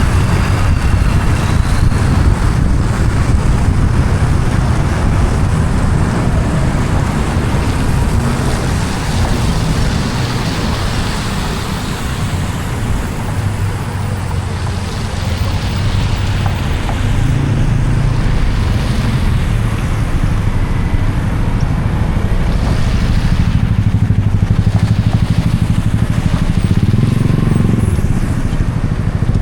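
Road traffic: cars and motorbikes passing on a wet road, over a steady low rumble and tyre hiss.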